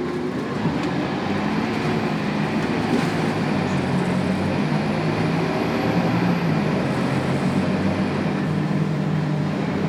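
Scania DC9 9-litre five-cylinder turbo diesel of a Scania K280UB bus running under way, with steady road noise; the engine note shifts a few times as it pulls.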